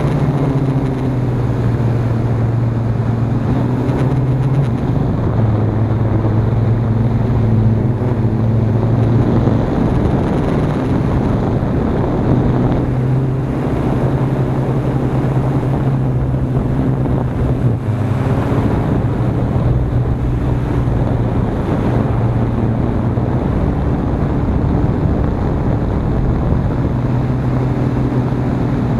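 Hexacopter's electric motors and propellers droning, the pitch shifting up and down as the motors work, with wind buffeting the microphone.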